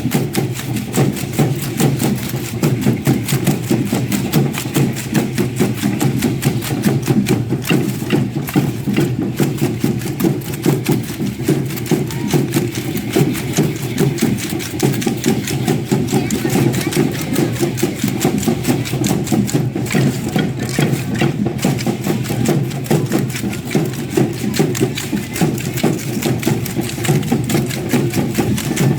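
Matachines dance accompaniment: a fast, steady rhythmic clatter over low drumming, as from the dancers' rattles and steps keeping time with the drum.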